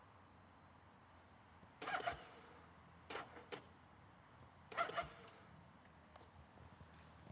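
A dog barking a few times, short sharp barks about two, three and five seconds in, over a low steady background hum.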